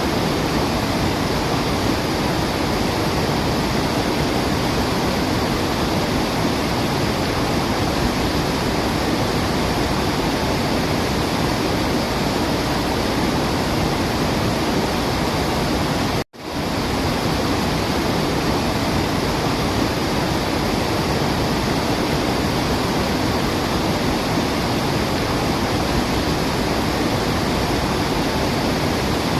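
Waterfall rushing, a steady even hiss of falling water. About sixteen seconds in it cuts out for an instant and quickly fades back in, like a loop restarting.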